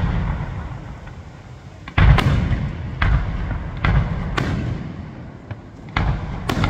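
Aerial firework shells bursting: a string of sudden booms, about one a second with a couple coming close together, each trailing off in a rolling echo.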